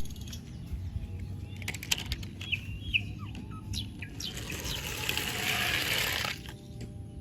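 Faint bird-like chirps and scattered clicks, with a hiss that swells for about two seconds and cuts off suddenly.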